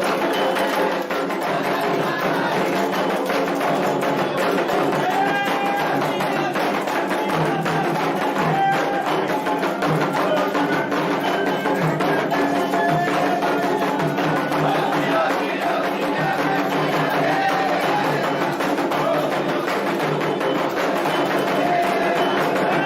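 Candomblé ritual music: atabaque hand drums and an agogô bell playing a steady, driving rhythm, with voices singing over it.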